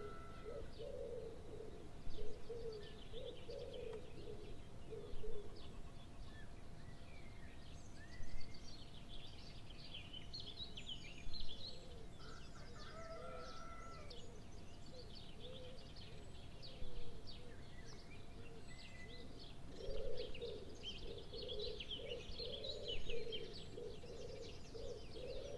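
Many birds chirping and calling together, with stretches of lower bubbling calls, and a brief louder sound roughly every three seconds.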